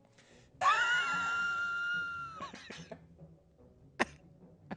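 A toy pipe (дудка) blown in one long, steady, high note lasting about two seconds. A sharp click comes near the end.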